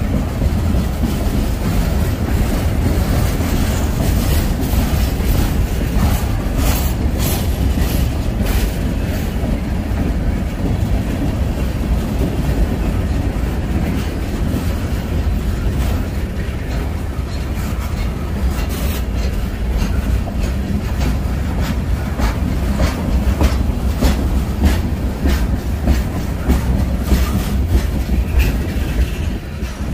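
Freight train cars rolling past with a steady low rumble, their wheels clicking over rail joints in irregular runs.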